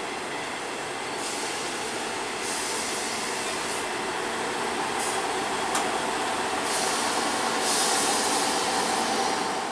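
Class 158 diesel multiple unit running into the station, its engine and wheel noise growing slowly louder, with a high hiss that comes and goes.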